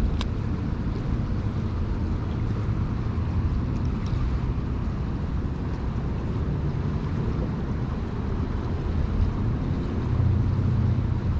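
Wind buffeting the microphone, a steady low rumbling noise, with one sharp click right at the start.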